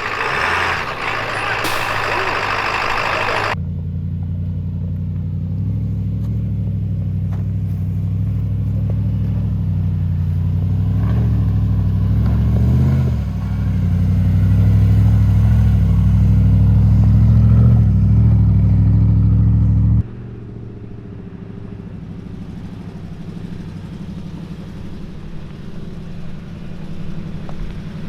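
Off-road 4x4 engine running at low, steady revs while crawling over rock, with a short dip in pitch partway through and a rise in loudness later. The sound cuts about twenty seconds in to a quieter engine note. It opens with a few seconds of loud, rough noise before the first cut.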